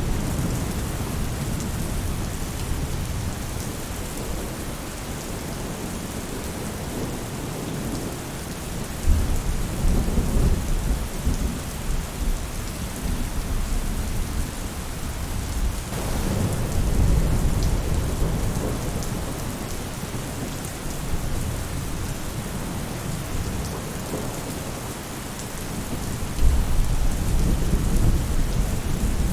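Steady heavy rain drumming on a roof, with low rolls of thunder swelling up three times, each lasting a few seconds.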